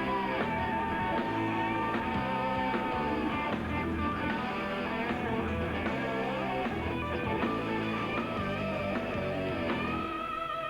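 Instrumental break in a pop-rock song: guitar over bass and drums with a steady beat, no singing. Near the end the bass and drums drop away, leaving held chords.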